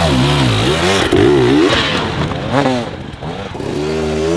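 Dirt bike engine revving in repeated throttle blips, its pitch swooping up and down several times, then holding a steady note near the end.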